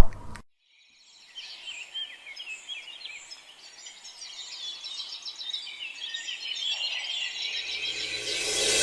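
Songbirds chirping and twittering, many quick high notes in a steady stream. A loud metallic clang cuts off at the very start, and a rising whoosh builds near the end.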